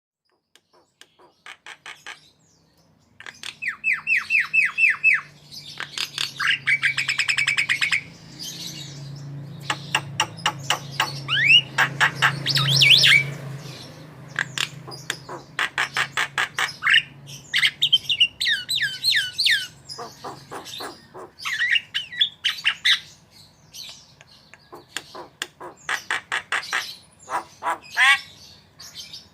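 Javan myna (jalak kebo) singing vigorously in a varied, chattering song: fast trills of repeated notes, sharp chips and squawks, and short rising and falling whistles. A few faint notes open it, and the full song starts about three seconds in.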